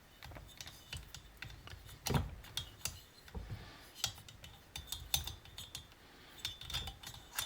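Scattered light clicks and metallic clinks of chainsaw engine parts and tools being handled as the cylinder is taken off, with a few sharper knocks.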